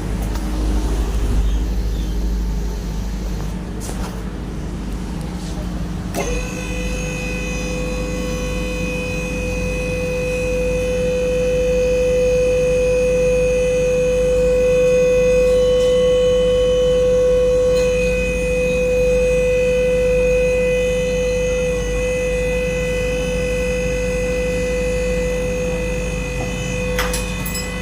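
A machine starts abruptly about six seconds in and runs with a steady whine, over a low hum that is there throughout.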